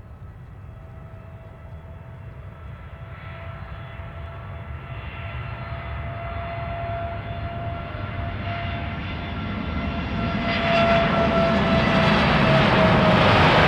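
JAL Boeing 787-8's GEnx turbofan engines at takeoff thrust, growing steadily louder as the jet approaches. A steady engine whine dips slightly in pitch near the end as the noise peaks.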